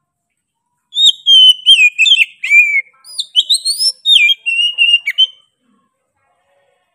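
Oriental magpie-robin (kacer) singing a loud run of whistled phrases with sliding notes and a few sharp clicks. It starts about a second in and stops after about four and a half seconds.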